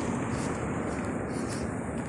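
Steady outdoor street noise, with the low rumble of a passing road vehicle fading away.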